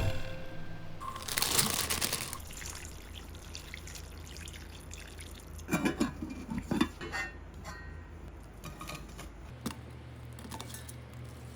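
Liquid pouring briefly, then a few light knocks and clinks of kitchenware.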